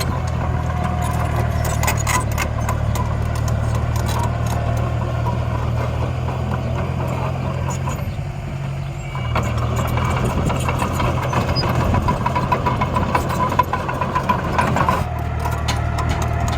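A machine engine running steadily with a low hum and scattered clicks and rattles, easing off briefly about halfway through before picking up again.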